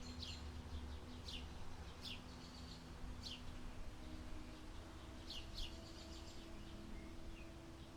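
A songbird calling with short, high chirps that sweep sharply downward, repeated roughly once a second, with two close together about five seconds in, over a faint low rumble.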